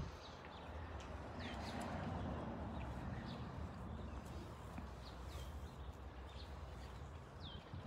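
Small birds chirping again and again, each chirp a short high note sliding downward, over a low steady outdoor rumble.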